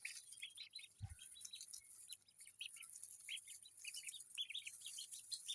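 Ducklings peeping: many short, high chirps in quick, irregular succession.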